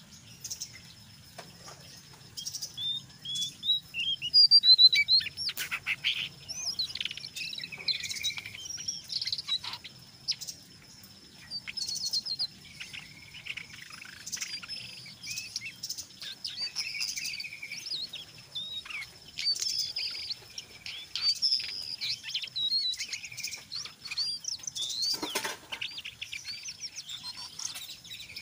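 Jongkangan coklat songbird calling without a break: rapid twittering chirps and quick trills, the chattering 'ngeriwik' song mixed with louder full calls. A thin, steady high tone runs faintly beneath.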